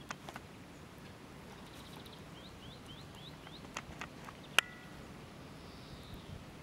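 Quiet outdoor ambience with a steady low background. A quick run of five short rising chirps comes about two and a half seconds in, and a single sharp click about four and a half seconds in.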